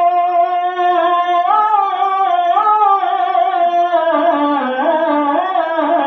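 Wordless sung melody of a naat: a long held vocal note, then from about a second and a half in, a run of shifting pitches that steps downward.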